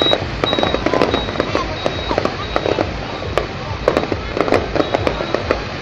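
Fireworks going off: a rapid, irregular run of bangs and crackles.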